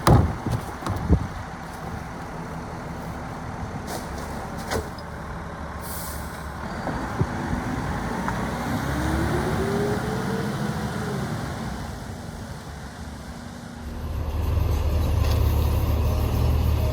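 Garbage truck at work with its engine running: a few sharp bangs near the start, a whine that rises and falls in pitch in the middle, and the engine growing louder about three seconds before the end.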